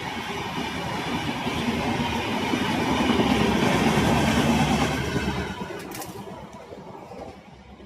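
Express passenger train running past at full speed: a dense rumble of wheels on rails that builds, then fades away over the last few seconds as the train recedes.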